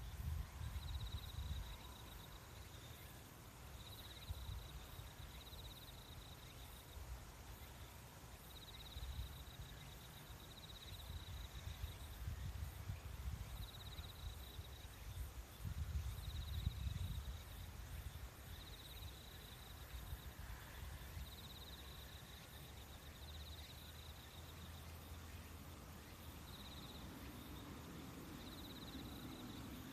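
Nature soundscape: an insect trills in short, high-pitched bursts, repeating about every one and a half to two seconds, over a faint, uneven low rumble.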